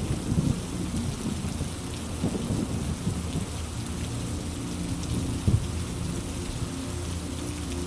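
Steady rain with rolling thunder. The rumble is strongest at the start and dies down over the first few seconds, with one short sharp crack about five and a half seconds in.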